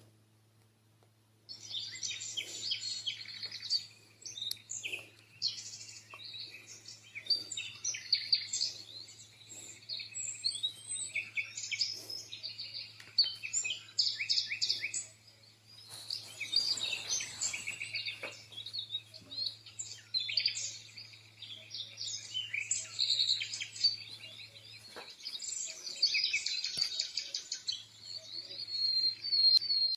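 Recorded birdsong, many overlapping chirps and trills, played by a Dreamegg Pocket Sleep 1 mini sleep-sound machine. It switches on abruptly about a second and a half in, over a steady low hum.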